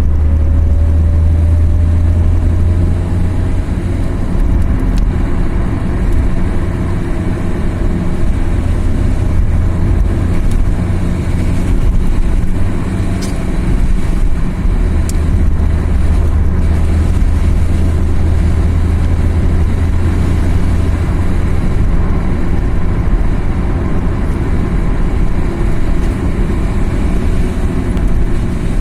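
Car driving on a mountain road: a steady engine drone and road noise, with the engine note rising and falling gently through the climb.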